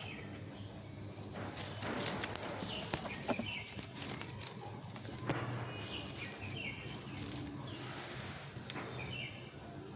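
A pet parrot gives a few short, faint chirps, about four, six and nine seconds in, among scattered clicks and rustling.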